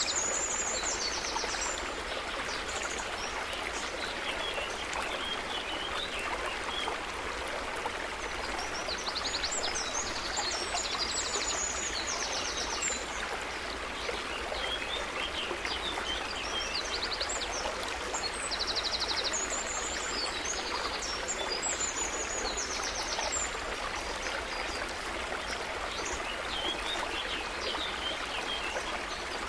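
Stream of water running steadily, with birds calling over it in several spells of high chirps and fast trills.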